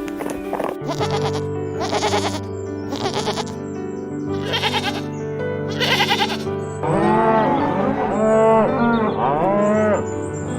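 Sheep bleating over steady background music: a handful of short, rough bleats in the first six seconds, then a run of wavering bleats rising and falling in pitch near the end.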